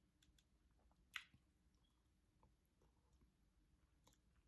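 Near silence with a few faint, short mouth clicks from chewing sardines; the sharpest click comes about a second in.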